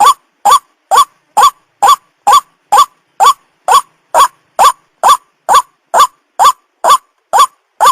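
White-breasted waterhen call played as a bird-catcher's lure: one short note rising in pitch, repeated evenly a little over twice a second with clean silence between the notes.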